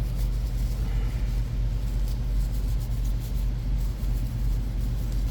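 A steady low hum with no change in pitch or level, with faint rustling over it.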